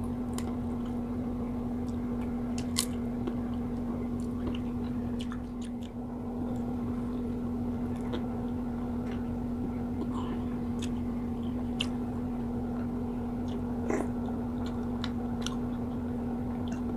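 Close-miked eating: a person chewing and biting fried tilapia, with scattered sharp crunches and mouth clicks, over a steady low hum.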